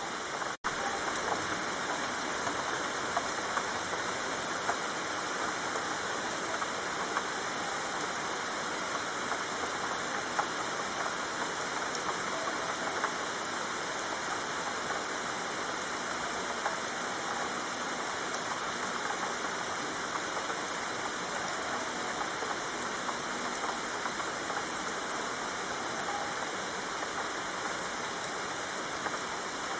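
Steady, fairly heavy rain falling, a dense even hiss dotted with small drop ticks. About half a second in, the sound cuts out for a split second.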